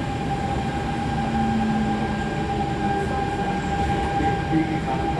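Inside a moving SMRT C651 metro train: a steady rumble of wheels on the track, with a steady whine from the traction equipment.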